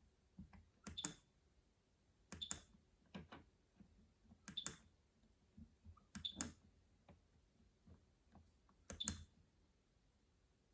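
Control panel of a Miele Navitronic W3985 WPS washing machine clicking as the wash program and settings are chosen: about five short, sharp clicks, several of them doubled, spaced unevenly.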